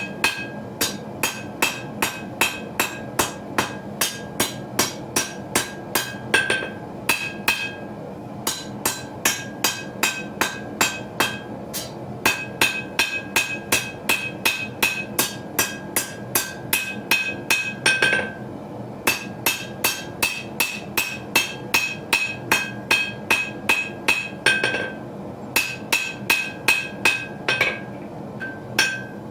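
Hand hammer forging hot steel on an anvil for a bird and trout skinner blade: steady blows about two to three a second, each followed by a short bright ring from the anvil, with a few brief pauses between runs of blows.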